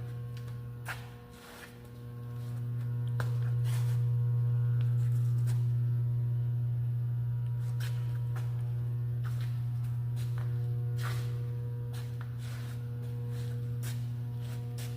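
Steady low electrical hum with a stack of overtones. It fades briefly about a second and a half in, then swells back up. A few faint clicks and light knocks sound over it.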